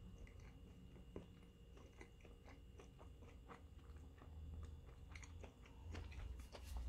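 Faint chewing of a mouthful of chicken burger: soft, irregular mouth clicks and small crunches, a little busier near the end.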